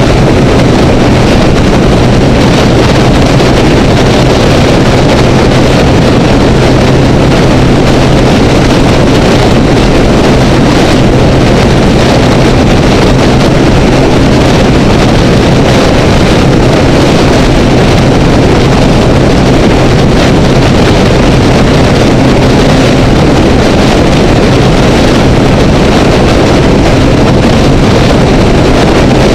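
Honda Rebel motorcycle cruising at a steady freeway speed: a steady engine drone under heavy wind rush on the camera microphone and road noise, with no change in speed or gear.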